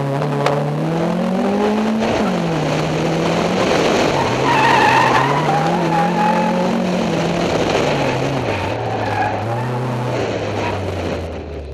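Honda Civic rally car's engine revving hard and dropping back several times as the car accelerates and brakes through tight turns, with brief tyre squeal. A single sharp click comes about half a second in.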